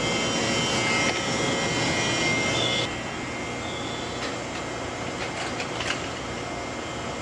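Steady mechanical hum and rushing noise of an electric train at a station, with faint high whining tones. It drops in level about three seconds in, and a few faint clicks follow.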